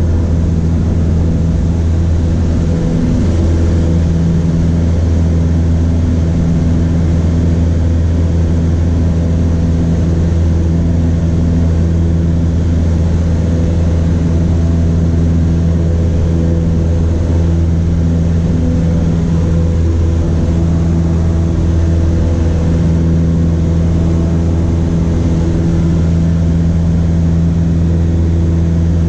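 Cessna 152's four-cylinder Lycoming O-235 engine and propeller droning steadily at an unchanging pitch.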